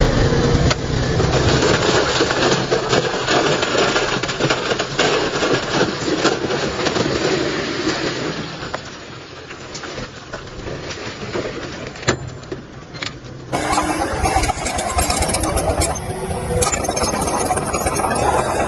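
Diesel engines of heavy earthmoving machinery, a dump truck and a bulldozer, running under work. The sound is loud, eases off for a few seconds past the middle, then changes abruptly about thirteen seconds in to another engine running.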